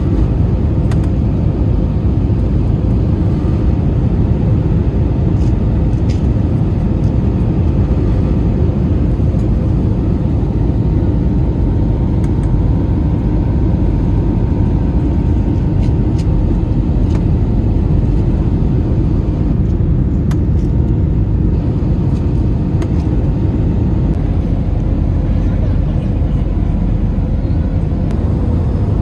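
Steady engine and air noise inside a Citilink airliner's passenger cabin, a loud, even rush with a faint steady hum above it.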